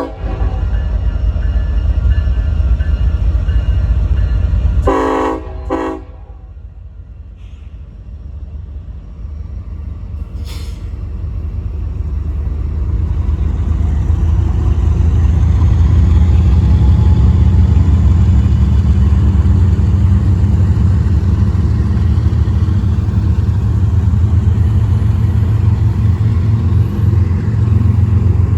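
Union Pacific intermodal train's locomotive horn blowing over the heavy rumble of the passing train, with a blast at the start and another ending about five to six seconds in. After a sudden drop to a quieter stretch, the train's rumble builds again from about ten seconds in and stays loud.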